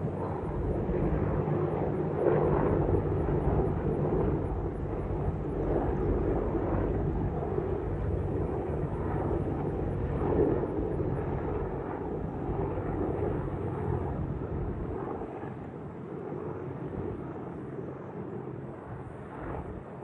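Boeing AH-64E Apache Guardian attack helicopters flying past, a steady rotor and engine noise that gradually fades over the second half as they move away.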